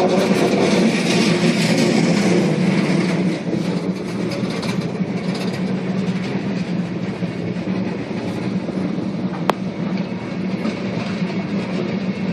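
Freight train cars (covered hoppers and tank cars) rolling past, a steady rumble of steel wheels on the rails, easing slightly after about three seconds. A single sharp click comes about three-quarters of the way through.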